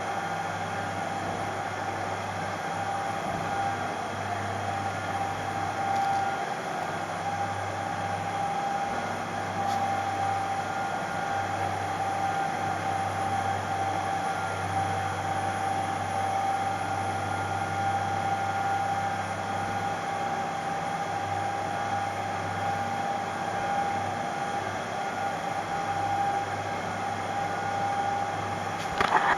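Boat engine running steadily, a constant low hum with a steady mid-pitched tone over it. A brief louder noise comes right at the end.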